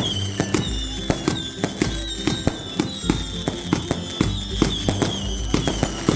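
A fireworks barrage: rapid, irregular bangs and cracks, several a second, over music with a bass line.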